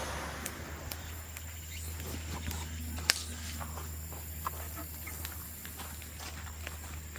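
Bamboo bonfire crackling, with scattered small snaps and one sharp pop about three seconds in, over a low steady hum.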